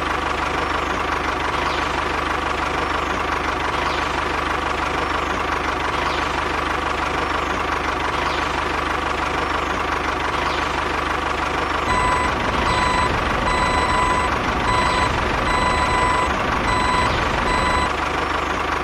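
Heavy vehicle engine running steadily; about two-thirds of the way through, a reversing alarm starts beeping in a regular series of high beeps, about two a second.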